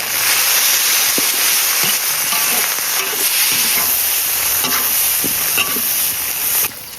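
Chilies, spices and chili paste sizzling in hot oil as they are stir-fried for a braising soup base, with scattered clicks of the stirring utensil against the pan. The sizzle drops away sharply just before the end.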